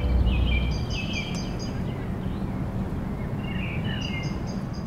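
Birds chirping: quick runs of three or four short, high chirps and some lower warbling calls, over a steady low background rumble.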